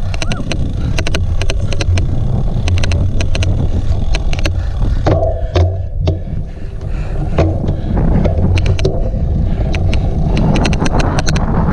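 Steady low rumble of wind and riding on a cyclocross bike, with rapid, irregular sharp clicking running through it: the odd clicking noise on the recording. The clicks thin out for a moment about halfway through.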